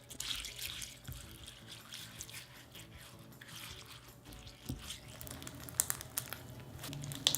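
Crunchy slime full of filler beads being stirred as it thickens, giving many small wet clicks and crackles.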